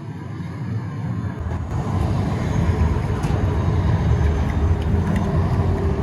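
Amsterdam tram running past, a low rumble that swells about a second and a half in and stays loud, with faint steady tones and light clicks above it.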